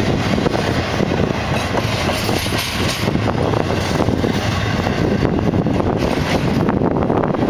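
Double-stack intermodal freight train's well cars rolling past, a steady noise of steel wheels running on the rails.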